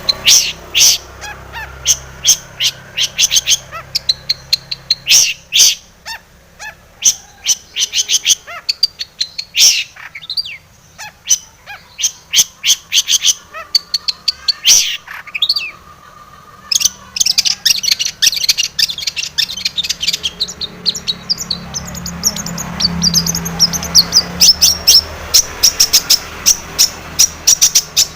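Long-tailed shrike (cendet) singing in fast runs of short, sharp, high chattering notes, with a brief lull about halfway through.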